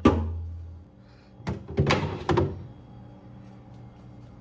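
A thunk, then a few quick knocks about a second and a half in, as things in a fridge are handled and moved, over faint background music.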